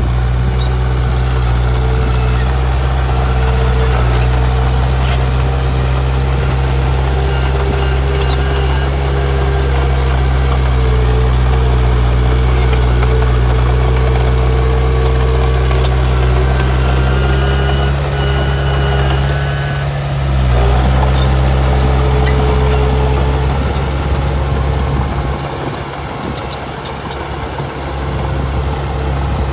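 Heavy diesel engine of earthmoving machinery running steadily. Its tone shifts briefly about twenty seconds in, and it eases off for a few seconds near the end.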